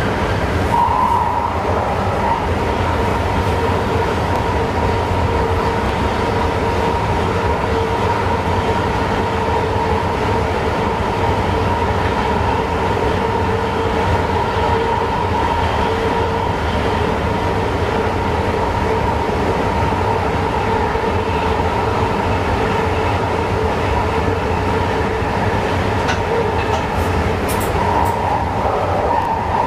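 Passenger train running steadily along the track, heard from the driver's cab: an even rumble of wheels on rail with a steady whine over it.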